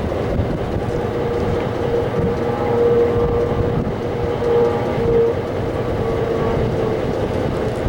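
Locomotive of a heritage passenger train running, a steady loud rumble with a wavering held tone from about a second and a half in until near the end.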